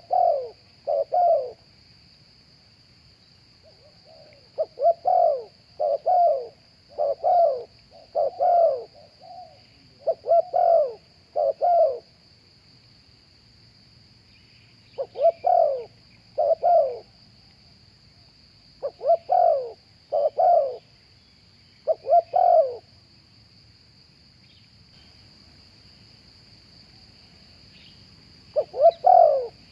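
Spotted dove cooing: short low hooting notes in groups of two or three, repeated in bouts with pauses between, over a steady faint high-pitched hiss.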